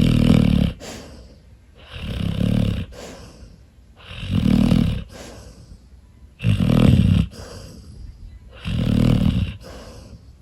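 A sleeping Labrador retriever snoring: five low snores, one about every two seconds, each lasting about a second.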